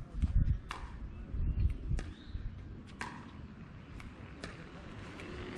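Irregular sharp pocks of pickleball paddles striking plastic balls, from more than one rally, over low rumbling from wind or handling on the microphone.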